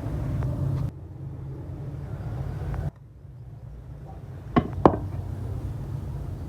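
A low steady hum with two sharp knocks in quick succession about four and a half seconds in.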